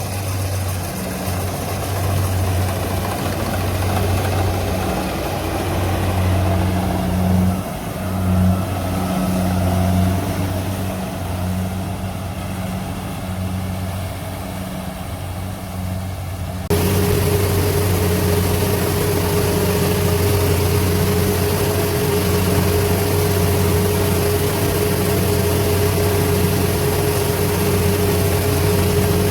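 Diesel engine of farm harvesting machinery running steadily with a deep hum. About seventeen seconds in the sound cuts abruptly to a louder engine with a steady whine over the hum.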